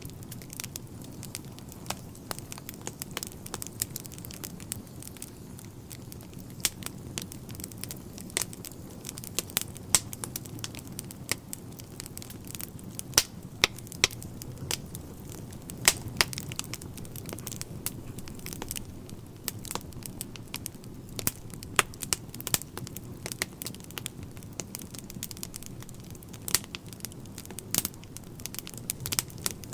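Wood fire burning in a fireplace: steady low rumble of the flames with frequent irregular crackles and sharp pops of the burning logs.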